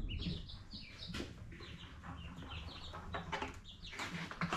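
A brood of ducklings peeping: many short, high, falling peeps overlapping one another, with a few light knocks among them.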